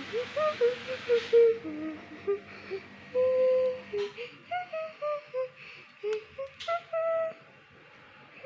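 A simple tune of short, single-pitched notes, some sliding up or down, broken by a few sharp clicks.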